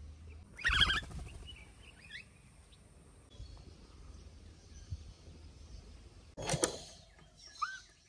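Birds calling outdoors: a loud harsh call about a second in and another at about six and a half seconds, with a few faint short chirps in between and near the end.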